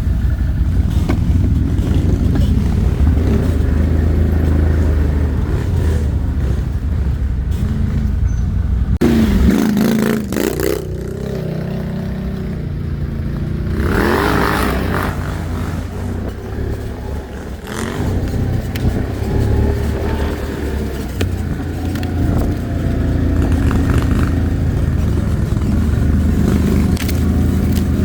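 ATV engine running while riding, its pitch rising and falling with the throttle, with brief revs about nine and fourteen seconds in.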